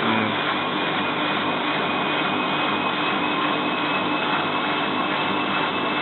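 Bosch WFF2000 washing machine in its spin cycle: the drum spinning with the motor running with a steady whine, as the machine tries to hold spin speed while water is still coming out of the load.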